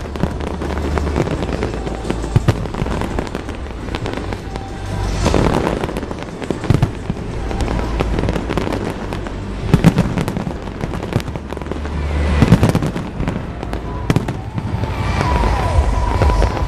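Fireworks display going off without a break: a dense run of bangs and crackling, with several louder booms spread through.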